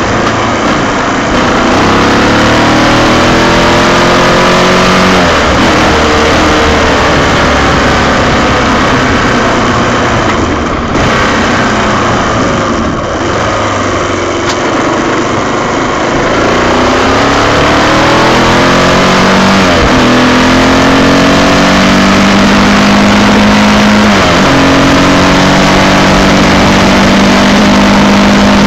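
Honda XR600's single-cylinder four-stroke engine pulling through the gears on the move: the revs climb and drop at gear changes about five, twenty and twenty-four seconds in, stay lower through the middle, then hold steady at cruising speed near the end.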